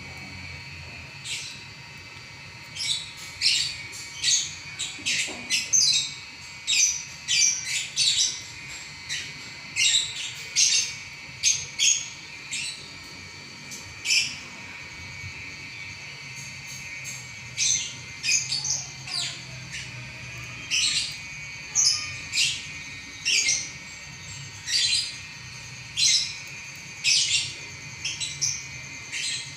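Lovebird singing a long, rapid chattering song: strings of sharp, high chirps and squeaks one after another, thinning briefly about halfway through.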